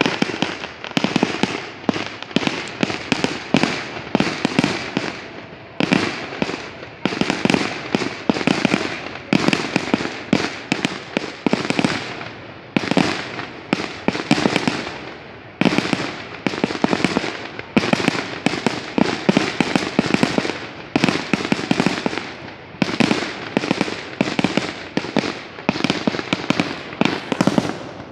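Fireworks display: shells bursting in rapid, near-continuous succession, a dense string of bangs and crackles with a few brief lulls.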